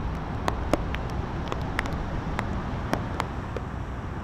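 Steady hiss of rain with wind buffeting the microphone, and scattered sharp ticks of single raindrops striking close by.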